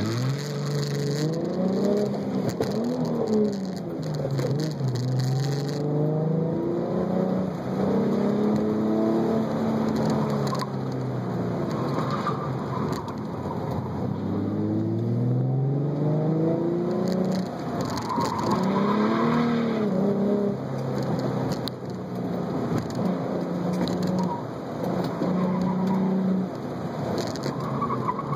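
2007 Ford Mustang's 4.0-litre V6, fitted with a cold-air intake and axle-back exhaust, heard from inside the cabin, its revs rising and falling over and over as the car accelerates and slows through an autocross course. Tyres squeal briefly a few times, most clearly near the end.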